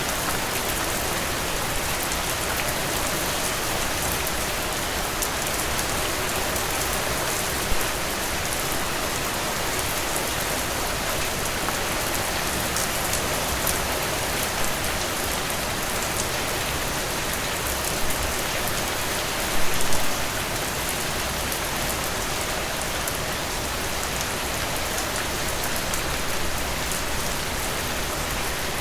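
Heavy, steady downpour of rain hitting a surface, a dense even hiss with fine drop patter. A few brief louder splashes or knocks stand out, the biggest a short cluster about twenty seconds in.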